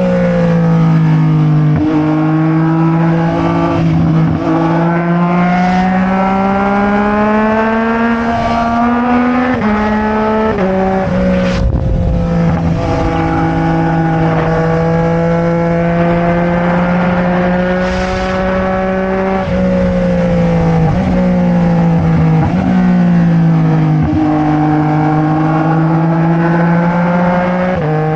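Sport motorcycle engine heard onboard while riding, its pitch climbing steadily as it pulls through the revs. It drops abruptly a few times, as at gear changes or when the throttle is rolled off, then climbs again.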